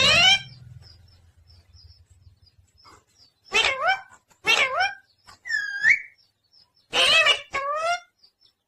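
Pet parrot calling: one call at the start, then after a pause a run of short squawks, each about half a second long, with a looping whistle in the middle of the run.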